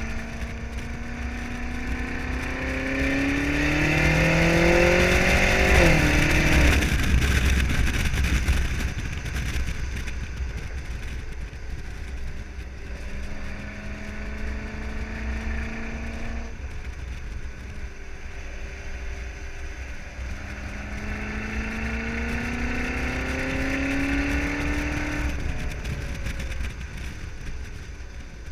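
BMW M5 30 Jahre's twin-turbo V8 with an Akrapovič exhaust accelerating hard, its pitch climbing three times and each climb cut off abruptly by a gear change or lift. The first run, in the first few seconds, is the loudest.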